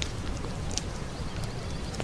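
Wood campfire crackling with scattered sharp pops, over the steady low rush of a flowing brook.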